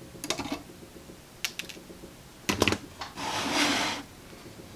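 Sharp snips of wire cutters clipping off excess capacitor leads: three quick clicks about a second apart, the last the loudest. They are followed by about a second of soft rushing noise.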